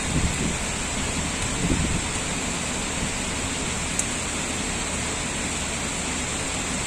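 Heavy typhoon rain falling steadily, a dense, even hiss. A couple of brief low rumbles come in the first two seconds, and a small click about four seconds in.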